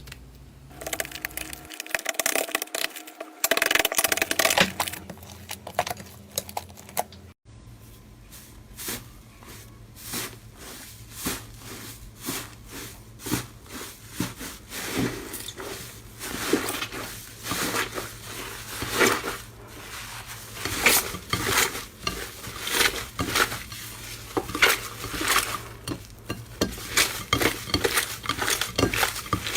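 Slime being squeezed and kneaded by hand, giving many small wet clicks and crackles; the sound changes abruptly about seven seconds in to another run of similar clicking.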